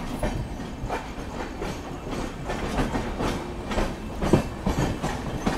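Moving passenger train heard from an open coach doorway: a steady rumble of wheels on rails, with irregular sharp clacks as the wheels cross rail joints.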